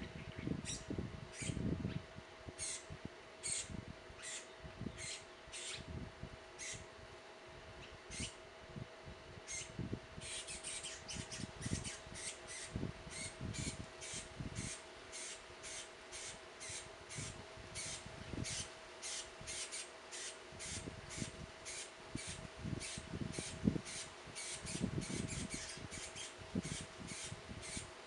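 Short high-pitched bird chips repeating steadily, about one or two a second at first and about three a second from roughly the middle on, over a faint steady hum and scattered low thumps.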